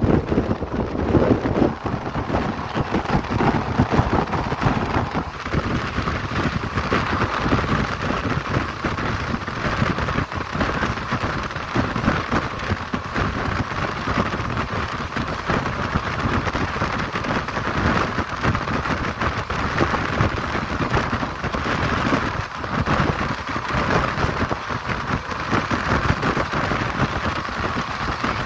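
Express passenger train running at speed, heard from an open coach window: a steady rumble of wheels on the rails, with wind rushing over the microphone.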